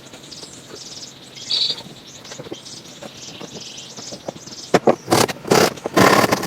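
Faint bird chirps over quiet forest background, then, from nearly five seconds in, a run of loud rough scraping strokes, several per second.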